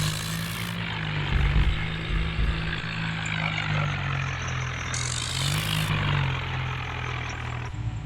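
Tractor engine running steadily, its low drone wavering slightly in pitch, with a sudden change in the sound near the end.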